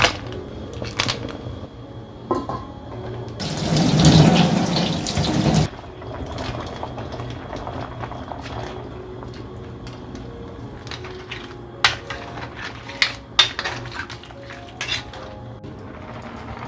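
Water running for about two seconds, starting about three seconds in, amid scattered kitchen clinks and knocks of dishes and utensils.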